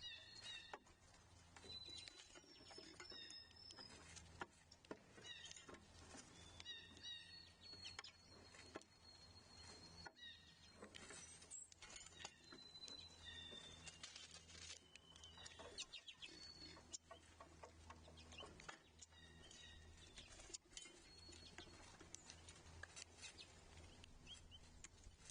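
Faint outdoor birdsong: small birds giving short, repeated chirps and calls every second or two, mixed with scattered light ticks and taps, over a low steady hum.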